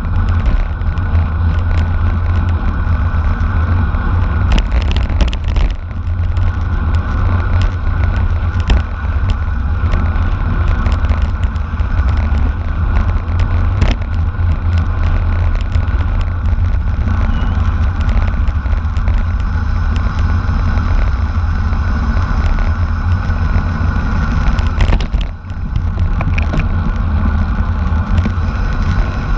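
Wind rushing over the microphone of a camera riding along in a bicycle race, with steady road noise and scattered sharp clicks.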